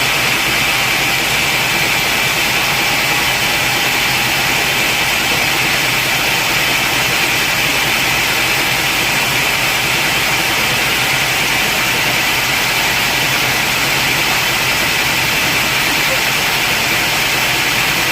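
Sawmill saw machinery running steadily: an even, unbroken mechanical noise with a strong hiss-like band in the upper-middle range and no change in level.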